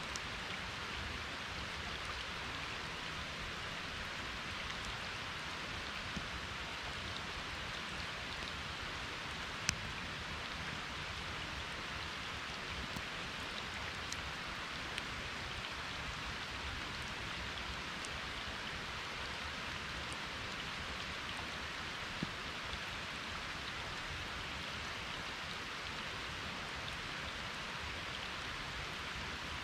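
Steady rain falling, an even hiss, with scattered sharp ticks of single drops striking close by; the sharpest tick comes about ten seconds in.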